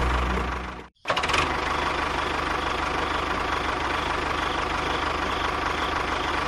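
An engine running steadily, cut off abruptly to silence for a moment just before a second in, then running on unchanged.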